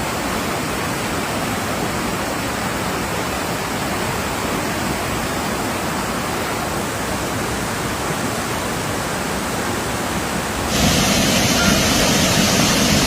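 Flash-flood water rushing steadily. The rush jumps louder and hissier about eleven seconds in.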